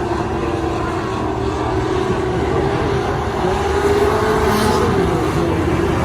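Race car engine running at speed, a steady drone whose pitch wavers slightly up and down.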